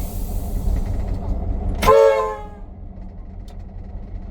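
The P20 diesel locomotive's horn gives one short toot about two seconds in. Underneath is the steady low rumble of its engine idling.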